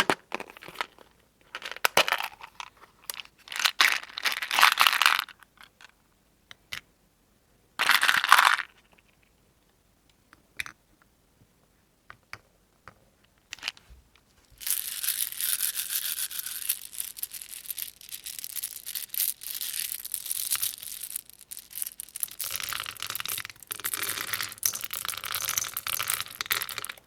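Close-up crinkling and crunching as soap and its wrapping are handled: irregular bursts in the first few seconds and again about eight seconds in, scattered clicks, then a dense, continuous crackle from about fifteen seconds in.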